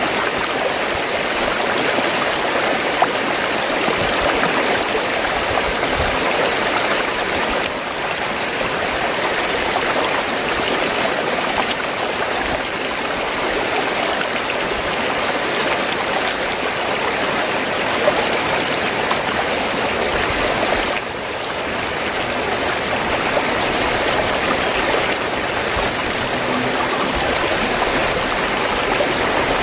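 Fast-flowing stream of water rushing and gurgling steadily.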